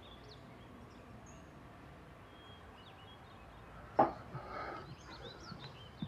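Quiet outdoor ambience with small birds chirping now and then. About four seconds in there is a single sharp knock, followed by about a second of soft noise.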